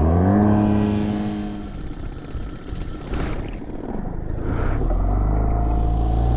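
Mercury 9.9 hp outboard motor running. Its steady note eases off after the first second or two, and a deeper steady drone builds from about five seconds in.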